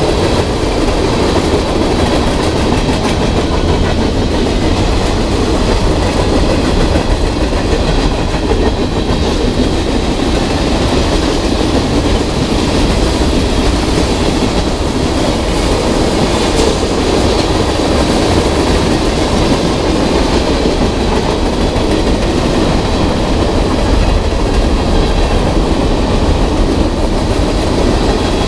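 Freight train cars (covered hoppers, tank cars and a boxcar) rolling past: a steady rumble and clatter of steel wheels on rail.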